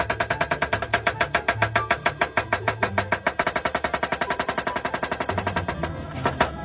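Rapid, even mechanical hammering, about nine strikes a second, typical of a power hammer forging a hammer head. The strikes stop after a louder final blow near the end. Background music with a bass line plays throughout.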